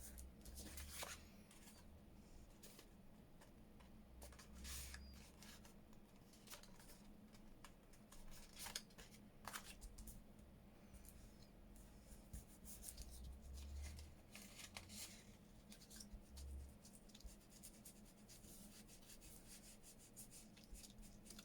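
Faint handling of paper and card: scattered rustles, rubs and small clicks, with a few short scraping swishes.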